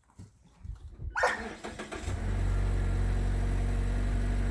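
Car engine started with the push-button start: after a short sharp sound about a second in, it fires about two seconds in and settles into a steady idle.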